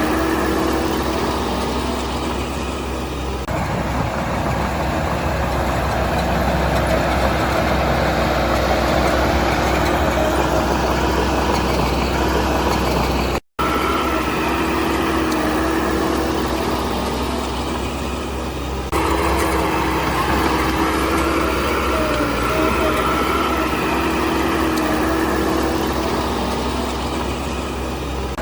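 Heavy diesel earthmoving machine engine running steadily under work. The sound changes abruptly a few seconds in and again about two-thirds through, with a brief dropout near the middle.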